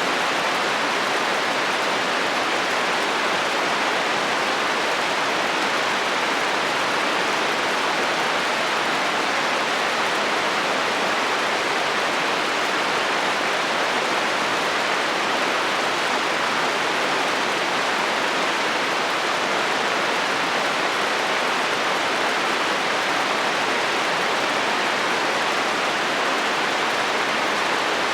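Heavy rain falling on a metal roof: a steady, even hiss with no change in level.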